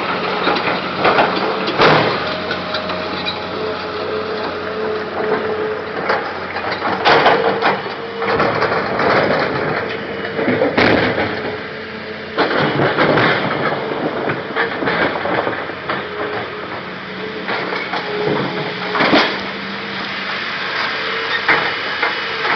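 Caterpillar excavator working: a steady machine hum runs throughout, with scraping and several sharp knocks or clanks, the loudest about 2, 7, 11 and 19 seconds in.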